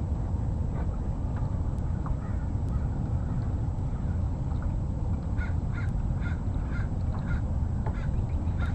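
A bird calling in a quick run of short, evenly repeated calls about five seconds in, over a steady low rumble.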